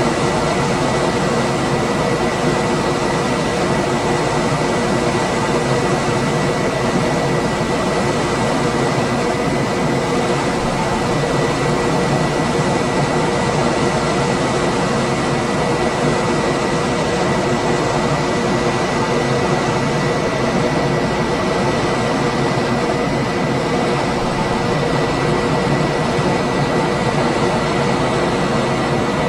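Room air conditioner running steadily: an even rush of fan air with a thin high whine and a couple of low hums held unchanging underneath.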